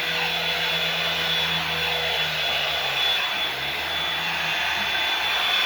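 Hair dryer blowing steadily, a constant rush of air with a thin motor whine.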